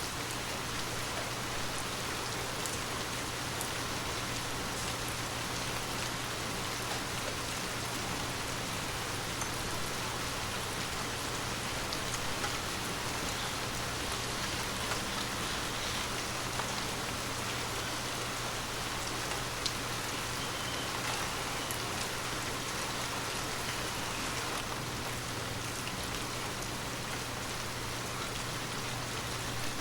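Water droplets tapping on glass in a steady, dense patter, like rain on a windowpane, with scattered sharper individual drops. A faint steady low hum runs underneath.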